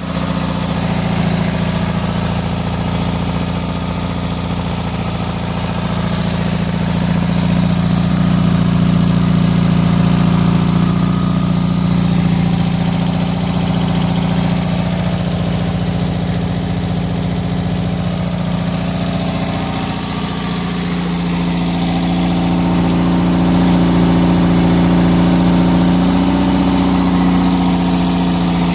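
1641 cc air-cooled Volkswagen flat-four engine running on test, idling steadily; its speed and loudness rise a little and settle back twice.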